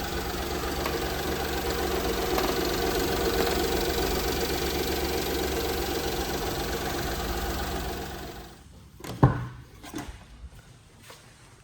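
Mitsubishi Minicab kei truck's small three-cylinder engine idling steadily, then switched off about eight and a half seconds in. A single sharp click follows, the loudest sound, then a few fainter clicks.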